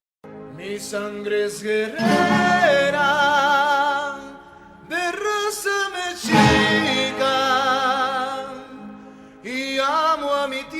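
A voice singing a slow song in long held notes with a wide vibrato, in phrases separated by brief pauses.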